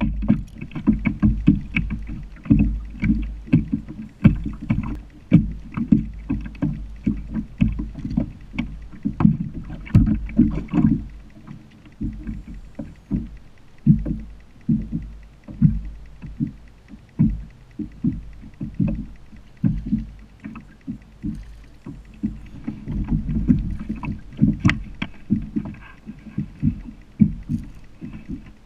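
A kayak being moved along a lake: rhythmic sloshing and splashing of water against the hull, with sharp knocks, repeating about once or twice a second.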